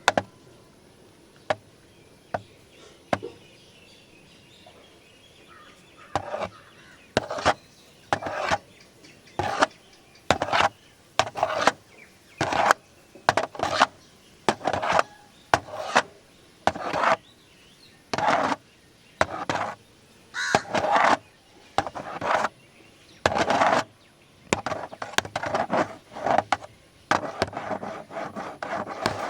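Scratching on the body of a large camera: a few isolated taps at first, then from about six seconds in a run of short scratch strokes, about one or two a second, running together into continuous rubbing near the end.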